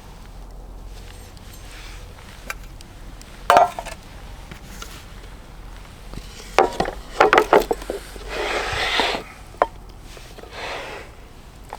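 Camp gear being handled: a single sharp knock, then a quick run of clattering knocks, followed by a second-long rustle and a shorter, fainter one near the end.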